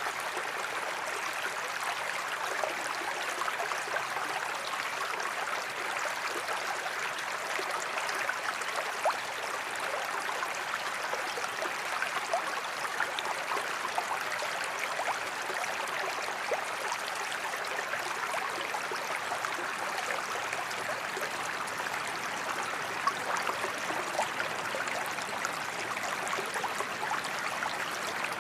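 Waterfall: water rushing and splashing steadily, with many small droplet splashes scattered through it and little deep rumble.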